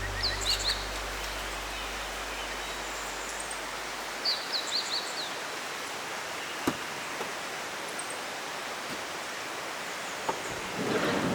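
Steady rush of a river with a small bird chirping in quick runs of descending notes, twice in the first five seconds, as background music fades out. A single sharp click a little past halfway and rustling near the end.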